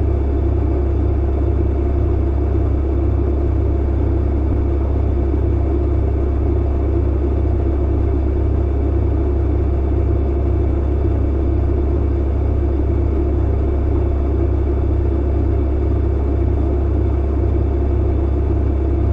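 Clothes dryer running: a steady low rumble and hum, even and unchanging.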